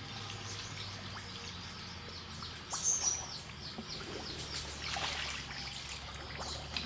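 Small birds chirping repeatedly in short high notes, the loudest call about three seconds in. Under them runs a steady low hum, with a brief rushing noise about five seconds in.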